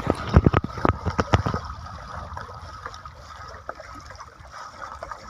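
Water splashing: several quick splashes in the first second and a half as a person moves in deep water, then a lighter, steadier wash and trickle of water.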